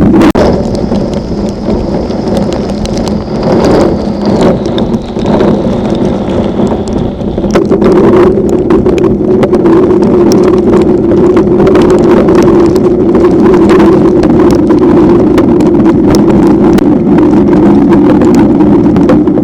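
Severe thunderstorm: heavy rain and wind, loud and constant, with many sharp raindrop patters over a steady low hum.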